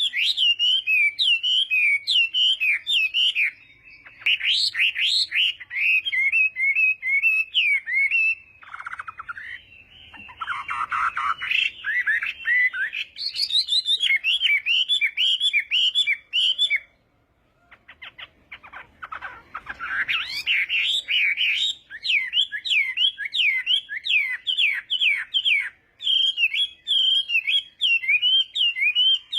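Chinese hwamei singing loud phrases of rapid, repeated whistled notes, with a lower, rougher passage about a third of the way in and a short pause past the middle.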